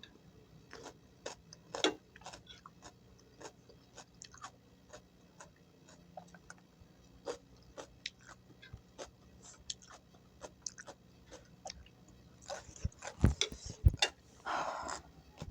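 Close-up chewing of vegetables in peanut sauce, with many small wet clicks and crackles from the mouth. Near the end come two heavy low thuds about half a second apart, then a short rush of noise.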